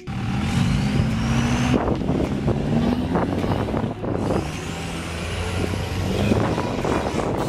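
Turbocharged car engine pulling hard under acceleration, its pitch climbing, with a thin high whistle rising alongside it twice.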